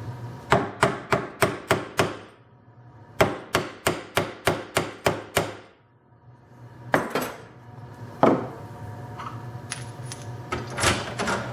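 Rapid hammer taps in two runs of about seven or eight, some three or four a second, followed by a few single knocks.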